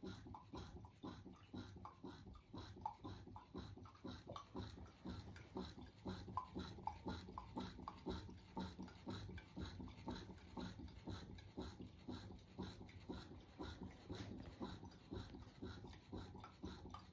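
A dog making short sounds in a quick, even rhythm.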